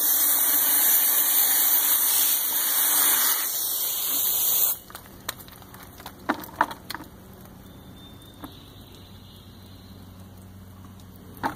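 Water spraying hard from a garden hose, a steady hiss that cuts off suddenly a little under five seconds in. After that there are only a few light knocks and clicks over a faint low hum.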